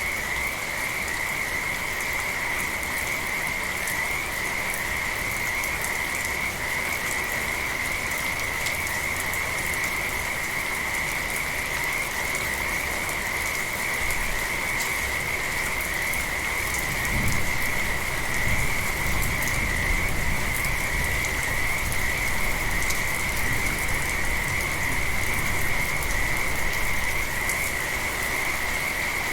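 A chorus of frogs calling in one steady, unbroken band of sound over light rain. A low rumble comes in a little past halfway and fades again before the end.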